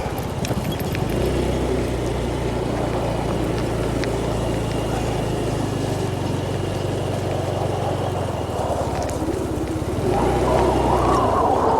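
Motorbike engine running steadily at low revs, dropping briefly near the end and then picking up again, over a rushing background noise.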